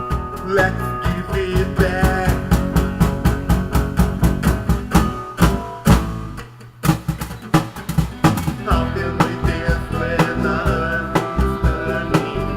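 Band music with guitar and a steady drum beat, the sound dropping away briefly about six seconds in before the beat resumes.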